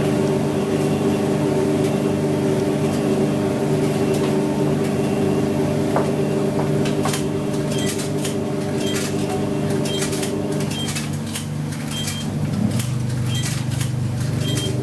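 IPSO 25 lb commercial washing machine running a hot wash, its motor and drum humming steadily. The hum's pitch drops about two-thirds of the way through, and light clicks come in the second half.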